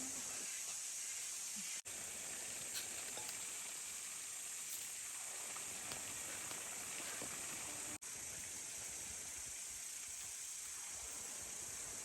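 Steady high-pitched hiss, broken by two brief dropouts about two and eight seconds in.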